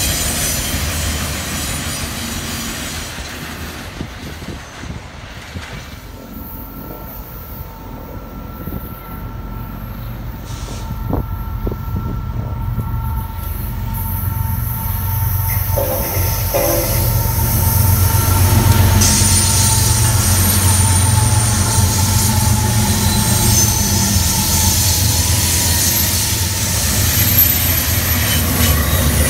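Freight trains passing: first the rear of a refrigerated intermodal train, wheels squealing and clattering on the rails, fading away. Then a BNSF diesel locomotive approaches, and its engine rumble grows and stays loud from about 18 seconds in, as it and its double-stack container cars roll by with wheels screeching.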